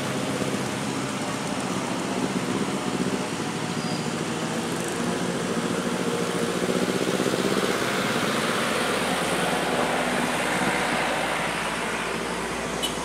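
A vehicle engine running steadily under road traffic noise, which swells for a few seconds in the second half as if a vehicle passes, then eases.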